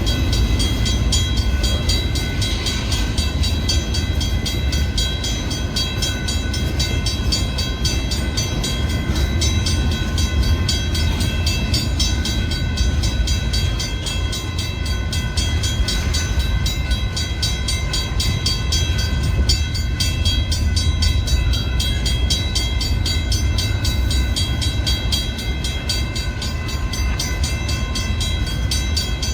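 Freight cars of a long manifest train rolling past: a steady low rumble of wheels on rail, with steady high-pitched ringing tones over it.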